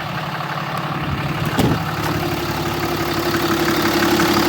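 2007 Ram 3500's 6.7-litre Cummins turbo diesel idling, growing gradually louder. A single knock comes about a second and a half in, and a steady higher hum joins the engine sound just after.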